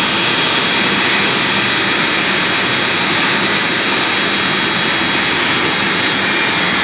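Metal lathe running steadily, a continuous even machine noise with a faint high whine over it.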